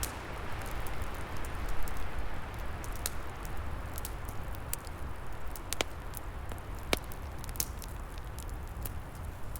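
Wood fire crackling, with scattered sharp pops over a steady rushing noise of wind in the trees; the rush swells briefly about two seconds in.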